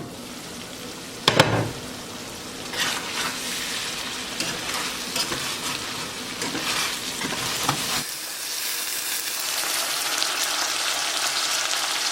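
Potatoes frying in a pan, sizzling with a steady hiss that grows louder, with the clicks and scrapes of stirring. A single sharp clatter about a second and a half in is the loudest sound.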